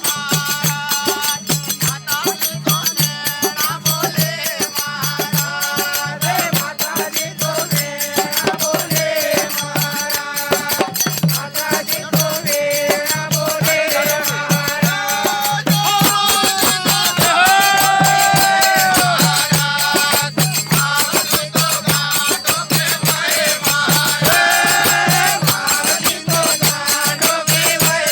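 A Hindi devotional bhajan in folk style: a melody wavering over a steady low drum beat, with continuous jingling percussion like a rattle or hand cymbals.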